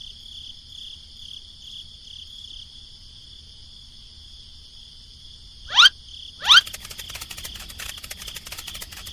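Steady high-pitched insect chirring, like crickets. About six seconds in come two loud, quick rising whistles, and then a dense, rapid buzzing rattle sets in.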